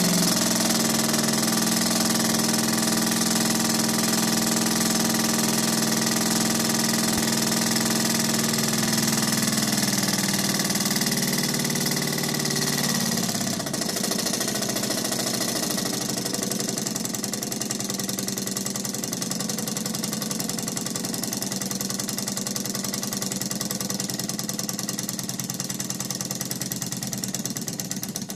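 Model alpha Stirling engine running fast, a steady mechanical hum with a fine rapid clatter. About halfway through, its pitch drops lower and the sound gets slightly quieter.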